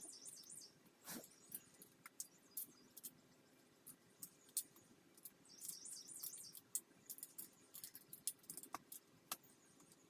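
Faint, scattered small clicks and light metallic jingling, with two brief clusters of jingling near the start and about six seconds in: small metal parts and hand tools being handled during dirt bike reassembly.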